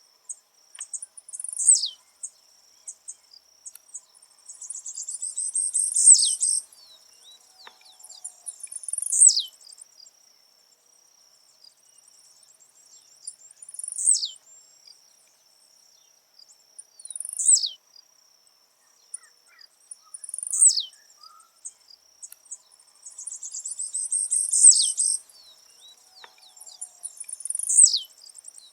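Blue-black grassquit (tiziu) singing its short, buzzy 'tiziu' song about eight times, once every three to four seconds. Each phrase is a sharp, high note that falls steeply in pitch, and twice a longer buzzy chatter comes before it.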